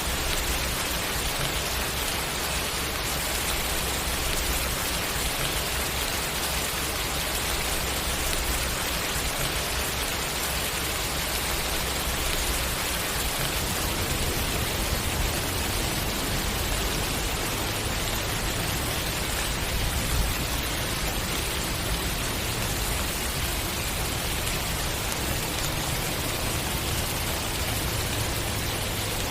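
Steady rain falling, an even hiss with faint individual drops.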